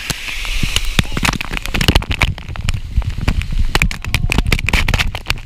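Spray and droplets from a waterfall crackling and spattering irregularly on the camera, over a steady low rumble of falling water.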